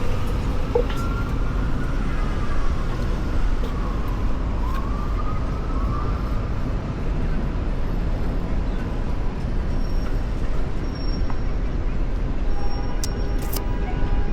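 Steady city traffic rumble and wind noise, with a siren wailing slowly up and down in pitch over roughly the first half.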